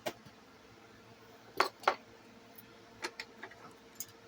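Small hard objects clicking and clinking as they are handled and set down on a table, with a close pair of louder knocks about a second and a half in and a few lighter clicks after.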